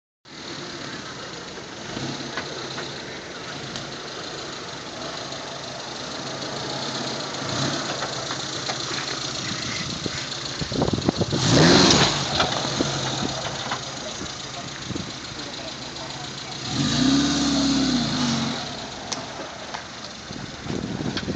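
Suzuki SJ413's four-cylinder engine running at low revs as the 4x4 crawls over rocks, with a louder noisy surge about halfway through and a brief rise and fall in revs near the end.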